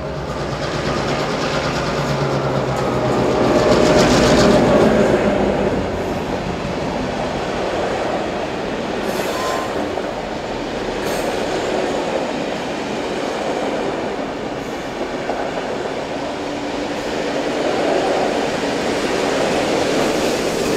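A passenger train passing close by on a curve. The diesel locomotive 4201 at the front is loudest about four seconds in, then the carriages roll by with wheel clatter and a brief wheel squeal, and steam locomotive 3801 at the rear passes near the end.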